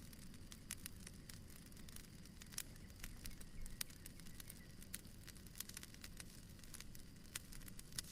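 Fireplace crackling softly: irregular sharp pops and snaps over a low, steady rumble of the fire.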